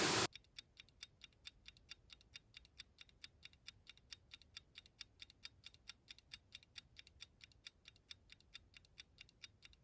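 Clock ticking sound effect: a steady run of faint ticks, about four a second, over otherwise dead silence.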